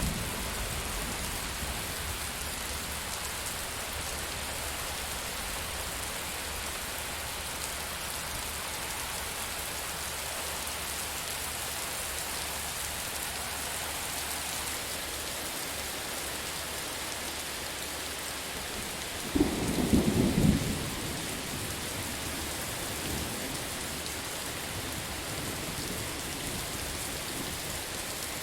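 Steady rain falling, with one short, loud crack of thunder about two-thirds of the way through.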